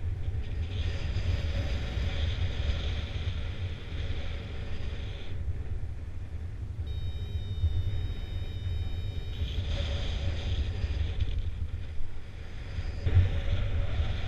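Wind buffeting the microphone as a steady low rumble, with gusts of hiss. A high, steady electronic tone sounds for about two and a half seconds around the middle.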